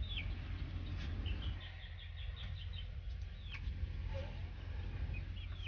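Small bird chirping: a single high down-sliding chirp, then about a second in a quick run of about eight short chirps, then another down-sliding chirp, over a steady low rumble.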